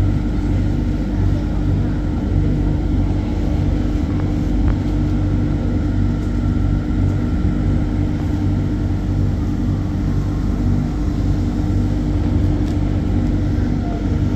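Sentosa Express monorail train running, heard from inside the carriage: a steady low rumble with an even motor hum.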